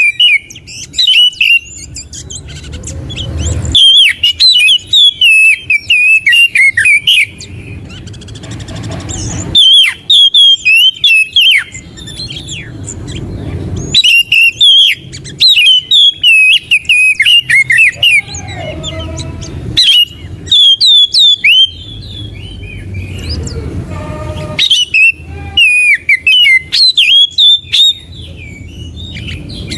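Oriental magpie-robin (kacer) singing: loud runs of rapid, varied whistled notes, each a few seconds long with short pauses between, over a steady low rumble. It is a trigger song meant to coax a silent or moulting kacer into singing.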